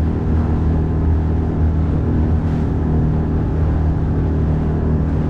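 A 9.8 hp outboard motor running steadily at speed, a low, even drone.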